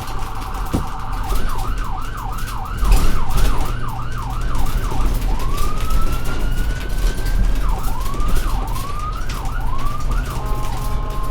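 Electronic emergency-vehicle siren, over a steady low rumble. It opens with a fast warble, switches to a yelp of quick rising-and-falling sweeps at about two or three a second, then climbs in one long wail, and goes back to the yelp near the end.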